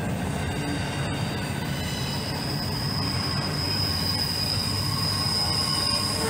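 Norfolk Southern intermodal freight train rolling past at close range with a steady rumble of wheels on rail. A thin, high wheel squeal sets in about a second and a half in and holds.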